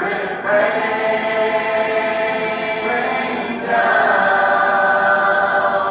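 Choir singing long held chords without words, a cappella, moving to a new chord about half a second in and again a little past halfway.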